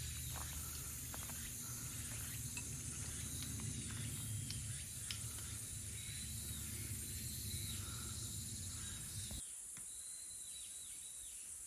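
Steady high-pitched drone of summer insects with short, repeated falling chirps over it. A low rumble underneath cuts off abruptly about nine seconds in.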